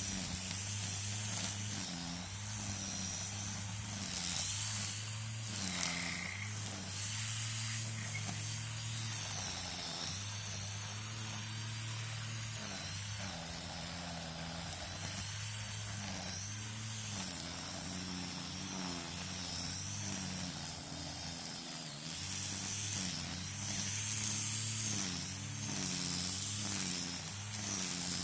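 String trimmer (weed eater) running continuously, its motor pitch dipping and rising slightly as the line cuts through weeds.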